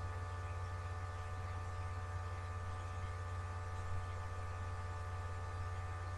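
Steady electrical mains hum, a low drone with a set of higher steady tones over it, unchanging throughout.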